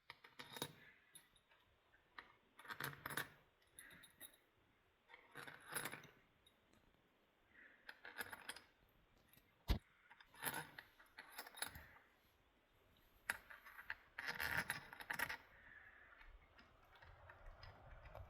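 Light metallic clinks and jingles of small bolts and hand tools being handled while the solenoid pack is fitted to a transmission valve body, coming in irregular clusters, with one sharp click about ten seconds in.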